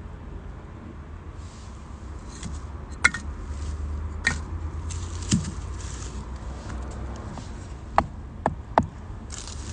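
Wood fire crackling in a small campfire stove, with a steady low rumble underneath and several sharp clicks, three of them close together near the end.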